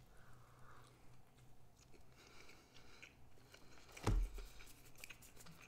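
A person chewing a mouthful of leftover pizza close to the microphone, with faint small mouth clicks, and a single low thump about four seconds in.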